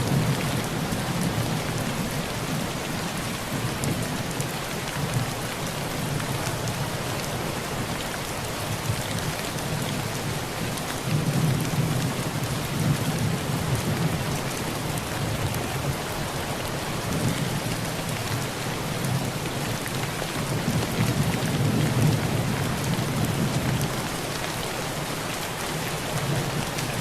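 Steady heavy rain on a tin roof, with low rolling thunder that swells three times: at the start, about halfway through, and again near the end.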